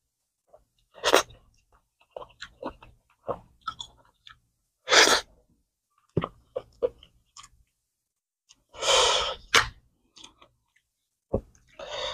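Close-miked eating: chewing and mouth smacking in short irregular spells, with a few louder noisy bites about one, five and nine seconds in.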